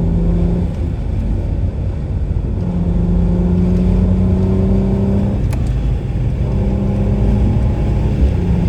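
BMW 750Li's twin-turbo V8 under part-throttle acceleration with its exhaust valves closed. The engine note climbs over three stretches, breaking about a second in and again just past halfway.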